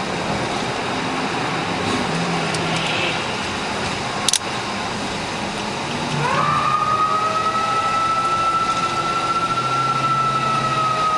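Emergency-vehicle siren: a high tone that rises quickly about six seconds in and then holds, falling slightly near the end, over steady road noise. A single sharp click comes about four seconds in.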